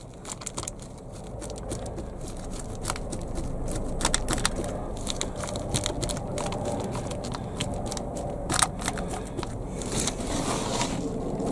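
Hands working loose potting compost, scraping and crunching with a steady run of small crackles and clicks, as pots and trays are filled ready for seed sowing.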